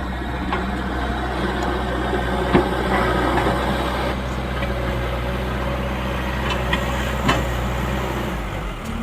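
Leyland Deere 435 backhoe loader's diesel engine running steadily, with a couple of sharp knocks; the engine note shifts near the end.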